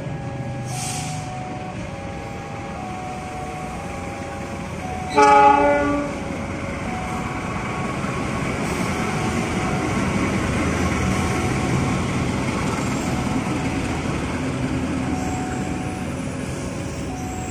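CC206 diesel-electric locomotive horn sounding one multi-tone blast of about a second. Then the train's wheels rumble steadily along the rails as it rolls past, growing louder and then fading.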